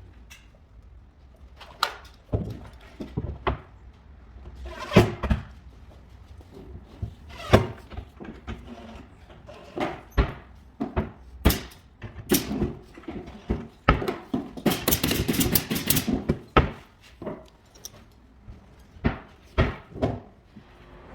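Irregular knocks and thuds of carpentry work with wood and tools, about a dozen separate hits. Near the middle comes a dense rattling run lasting about a second and a half.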